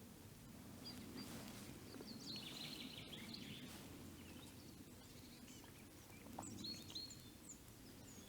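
Faint, scattered high bird calls and short chirps, including a quick run of repeated notes a little over two seconds in, over a low, steady background rumble.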